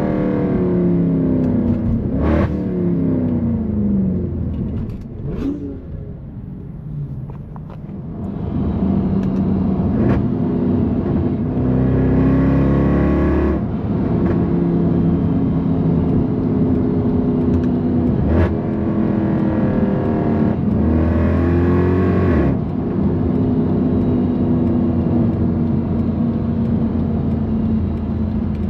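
Straight-piped, naturally aspirated M156 V8 of a 2009 Mercedes C63 AMG under way. The engine note falls off at first and goes quieter for a few seconds. It then builds again, with two short bursts of hard acceleration separated by steady cruising, and keeps cruising near the end.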